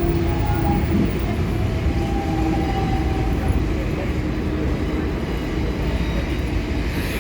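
Docklands Light Railway train heard from the front seat: a steady rumble with a couple of held humming tones that fade out about halfway through.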